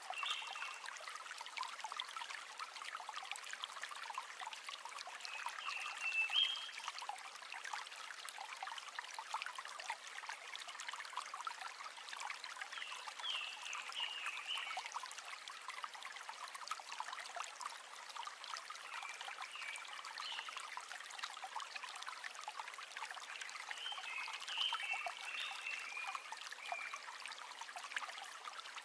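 A river running steadily, trickling and babbling.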